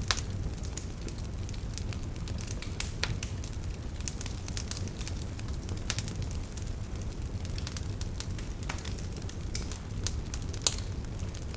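Campfire of burning firewood crackling: irregular sharp pops and snaps over a steady low rumble, with one louder pop near the end.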